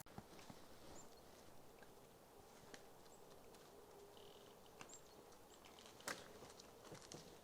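Near silence: faint outdoor ambience with a few short high bird chirps, scattered light ticks and one sharper click about six seconds in.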